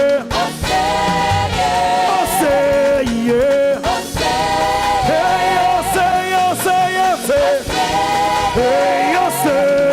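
Live gospel praise music: a choir of voices singing a lively song over a band.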